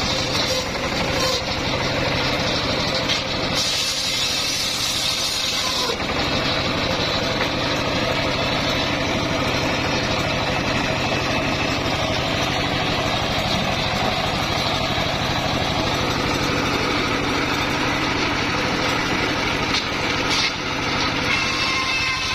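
Engine-driven homemade circular saw rig running steadily, an engine note under a hiss that changes briefly a few seconds in and again near the end.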